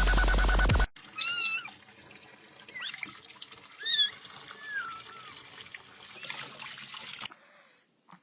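A cat meowing: two loud, short meows about a second and four seconds in, then a softer one. Electronic music cuts off under a second in.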